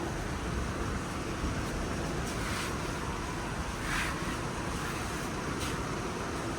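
Thunderstorm wind and rain, a steady rushing noise with a few brief hissing swells.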